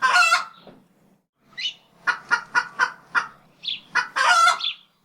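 Domestic poultry calling: a run of short clucks, with a longer drawn-out call at the start and another near the end.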